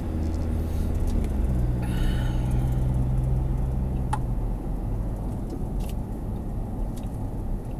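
Car engine and road noise heard from inside a moving vehicle; the engine note picks up about a second and a half in as it pulls away and eases off about halfway through, with a few short clicks.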